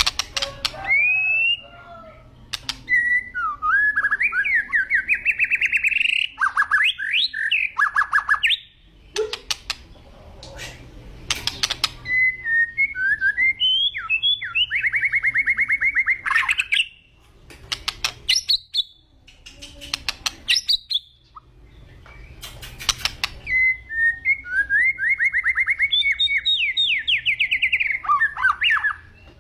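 White-rumped shama (murai batu) singing loudly: three long phrases of fast trills, with sharp clicking notes between them.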